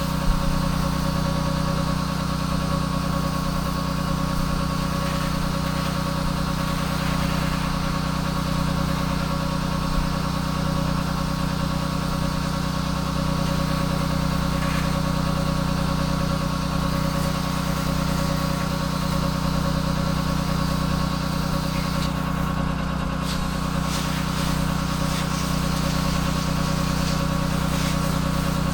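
Pressure washer's engine running steadily at constant speed with an even hum.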